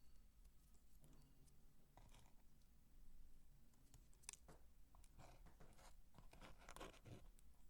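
Faint crisp crunching and crackling of dry soap being handled close up: a few scattered crackles, then a denser run of them in the second half.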